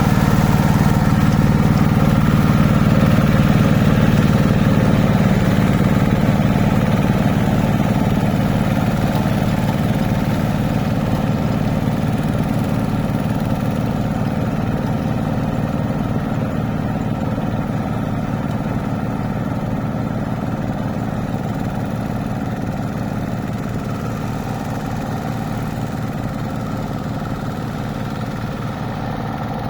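A two-wheel hand tractor's engine running steadily with an even, rhythmic chug, growing slowly quieter over the stretch.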